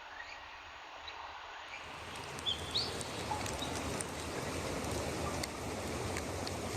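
Small birds chirping over quiet woodland ambience. About two seconds in, it switches to a steady hiss of rain with scattered sharp drop ticks, and one more rising bird chirp is heard over it.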